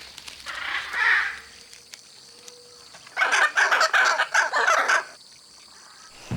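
Hyacinth macaws calling: one call about a second in, then a rapid run of loud calls lasting about two seconds.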